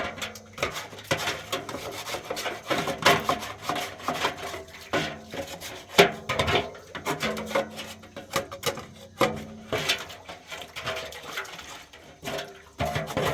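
Irregular scraping and rubbing strokes on wood, with some sharper knocks.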